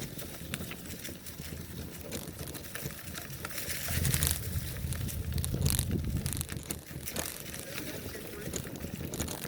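Bicycle riding over a rough trail: tyre rumble and rattling clicks from the bike, with wind buffeting the microphone, loudest about four to six seconds in.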